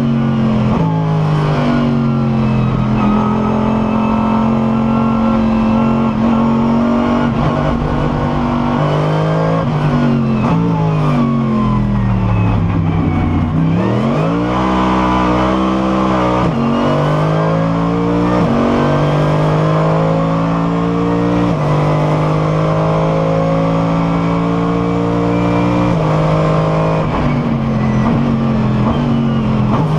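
Mercedes SLS AMG GT3 racing car's V8 engine at racing speed, heard onboard. About nine seconds in the revs fall through a series of downshifts under braking. From about halfway it accelerates hard again, climbing back up through the gears with several upshifts.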